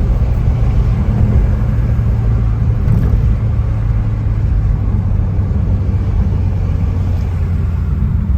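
Dodge Challenger Scat Pack's 6.4-litre HEMI V8 cruising at a steady speed: an even, low engine drone with road rumble, heard from inside the car.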